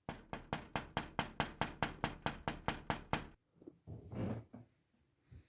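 Rapid knocking, about six knocks a second for some three seconds, then a single longer sound about four seconds in.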